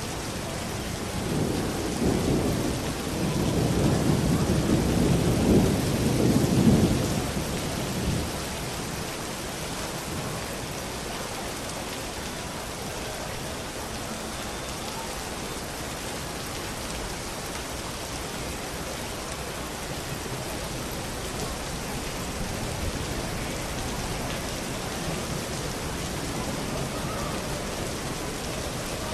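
Steady heavy rain with a long rolling rumble of thunder, building from about a second and a half in, loudest near seven seconds and dying away by eight, then a fainter distant rumble later on.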